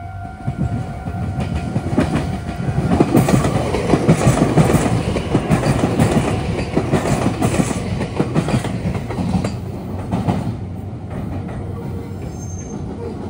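Meitetsu electric train passing close by, its wheels clattering over the rail joints and junction points. It builds over the first few seconds, is loudest around four seconds in, and fades away after about ten seconds.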